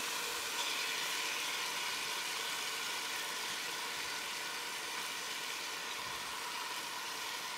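Chopped onion, celery and bell pepper sizzling steadily in hot olive oil in a Dutch oven.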